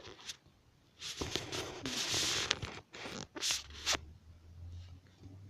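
A kitten's claws scratching and scrabbling as it tries to climb: a rustling stretch about a second in, then a couple of short scratches.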